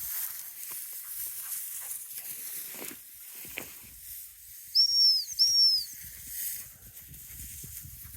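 Two short, loud toots on a dog-training whistle, each rising then falling slightly in pitch, given about half a second apart to signal a working Springer spaniel, over wind hiss and the rustle of walking through brush.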